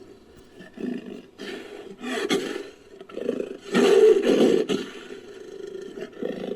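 Sound-designed dinosaur roars made from cougar and leopard recordings: a run of separate roars and growls, the loudest about four seconds in.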